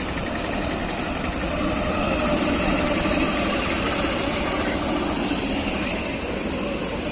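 Train engine running steadily, a heavy engine sound that swells slightly a couple of seconds in and then settles.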